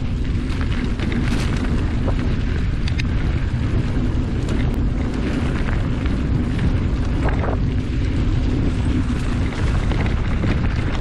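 Wind rushing over the microphone while riding along a trail: a loud, steady low rumble, with a few brief ticks and rattles.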